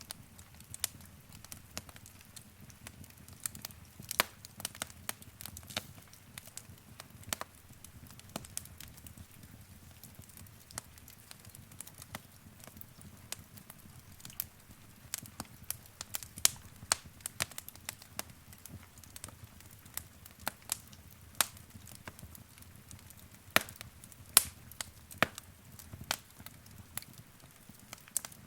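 Wood fire crackling in a fireplace: irregular sharp pops and snaps over a low, steady rumble of the flames, with a few louder pops about two-thirds of the way through and again near the end.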